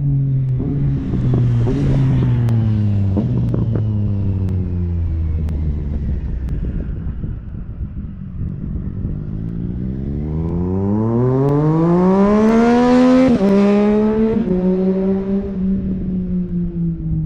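2020 Triumph Street Triple RS's 765 cc inline-three engine running through a LeoVince LV One EVO slip-on exhaust while standing still. The revs settle downward over the first several seconds with a few sharp pops, then rise smoothly for about three seconds in a throttle blip and drop suddenly back to a steady, fast idle.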